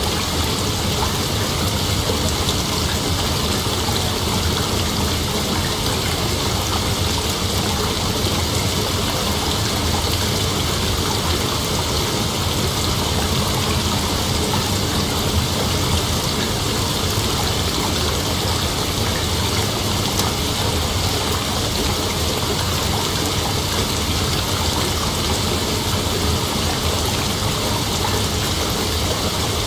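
Steady, unbroken chorus of night insects, strongest in a high band, with no breaks or single calls standing out.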